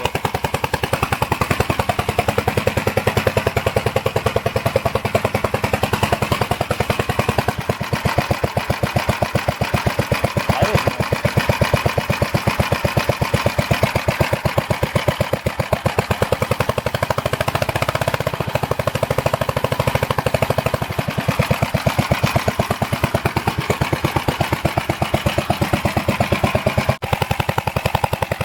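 Gravely Model LS walk-behind tractor's single-cylinder engine running steadily, its exhaust a rapid, even train of firing pulses through a muffler that is getting pretty loud. It runs without loud knocking or clicking, a sign the freshly overhauled engine is healthy.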